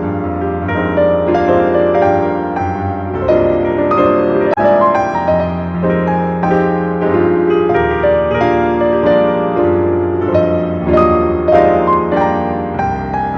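Instrumental piano music playing steadily, a slow run of sustained notes over low held tones.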